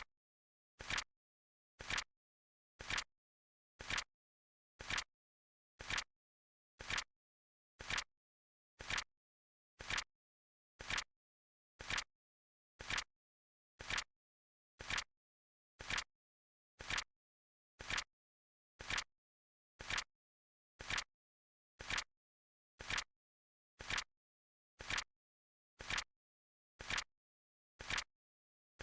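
Flip clock sound effect ticking once a second: a sharp click, each one a quick double click with the second part louder, and silence between them.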